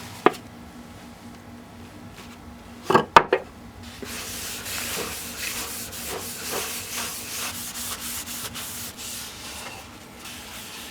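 A cloth rubbing wood stain onto a carved maple hammer handle: a steady, fluttering rubbing hiss that starts about four seconds in, after a click early on and a couple of sharp knocks about three seconds in.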